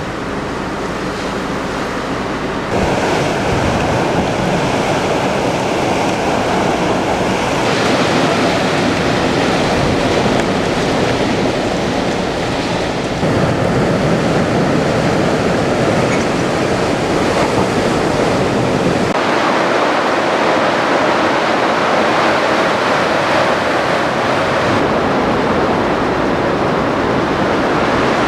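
Typhoon storm noise: a dense rush of wind and driving rain, with surf mixed in, its character changing abruptly several times.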